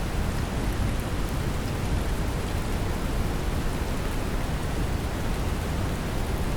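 Steady brown noise, a deep even rumbling hiss, mixed with gentle rain whose faint drop patter sits on top.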